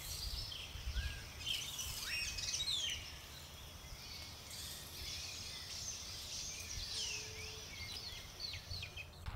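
Small birds chirping and twittering, with many short rising and falling calls overlapping, over a low rumble.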